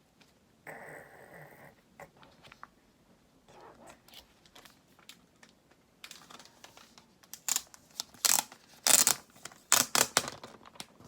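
Packaging being unwrapped: crinkling and tearing, with a brief rustle about a second in and then a run of loud, sharp tearing rustles in the second half.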